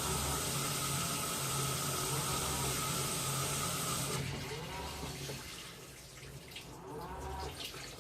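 Washing machine filling with water: a steady hiss of water running in that cuts off suddenly about four seconds in, followed by quieter sloshing and dripping in the tub with a low intermittent rumble.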